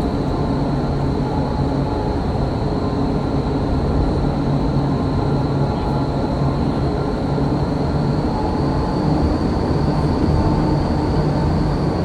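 Vertical wind tunnel running: a loud, steady rush of air from its fans, with a steady high whine and a low hum under it.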